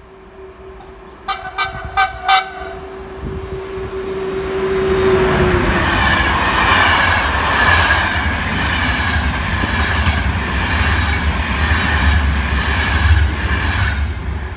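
A train sounds four quick short horn toots as it approaches. Then an Intercity passenger train runs past close by at speed: rushing noise with a steady clatter of wheels over the rail joints, dying down near the end as the last coach goes by.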